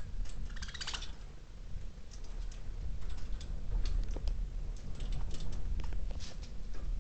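Budgerigars making scattered small clicks and ticks, with a brief chirping chatter just under a second in, over a steady low rumble.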